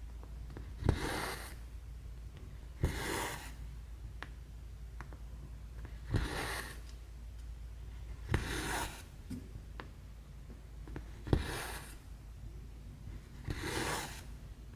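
Cross-stitch needle and thread going through 11-count fabric, six stitches two to three seconds apart: each a sharp tick as the needle pierces the cloth, then about half a second of hiss as the thread is pulled through.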